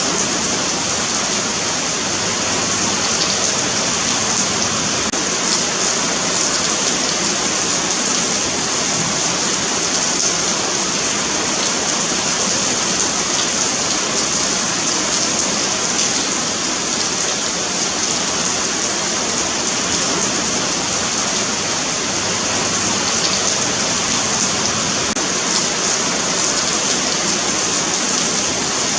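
Steady rain falling on a paved sidewalk, an even hiss of countless drops pattering on the pavement.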